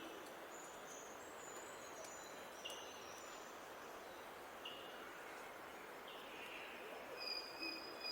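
Small birds calling over a steady outdoor hiss: short calls repeated every couple of seconds, thin high chirps, and a longer, louder phrase near the end.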